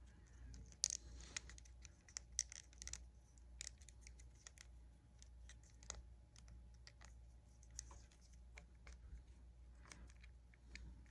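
Faint, irregular small clicks and taps over a steady low hum.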